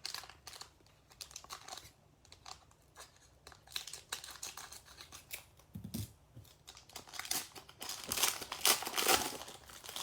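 A baseball card pack wrapper being torn and pulled open by hand: irregular crinkling and tearing in bursts, loudest in a run near the end, with a soft thud about six seconds in. It is a pack that is tough to open.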